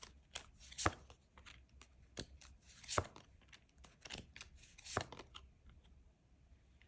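Tarot cards being shuffled and handled: light taps and rustles with three sharper snaps about two seconds apart, dying away near the end.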